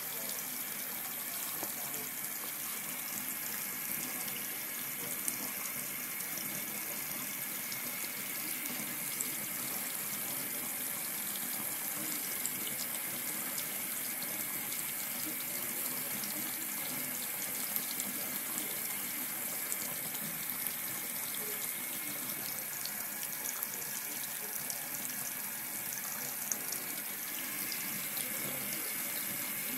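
Water tap running in a steady stream into a sink.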